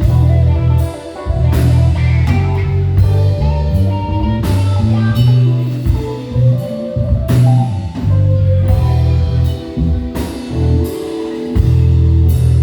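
Live band instrumental: electric bass and drum kit under guitar, keys and sax lines, with a steady beat.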